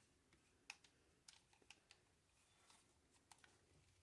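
Near silence broken by a handful of faint, scattered clicks and taps: small craft items, a plastic flower pot and foam board, being handled.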